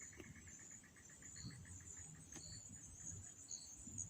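Faint evening insect chorus: a steady high-pitched drone with a rapid, evenly pulsing chirp that fades out about two seconds in, and short high notes about once a second.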